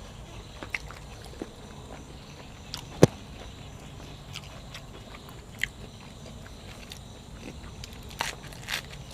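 Close-up eating sounds of a person biting and chewing food, with scattered wet clicks and crunches. There is one sharp loud click about three seconds in and a few louder crunches near the end.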